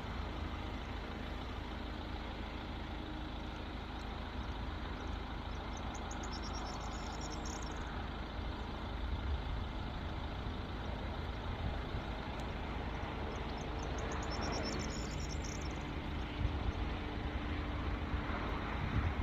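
Steady vehicle driving noise: a continuous low engine and road rumble with a faint steady hum.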